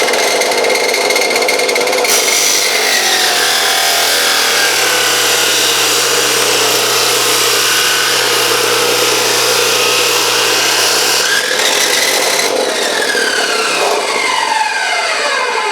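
Electric chop saw running at full speed, its blade cutting through a plastic Wi-Fi router's housing and circuit board. About twelve seconds in the motor is let go and spins down, its whine falling in pitch.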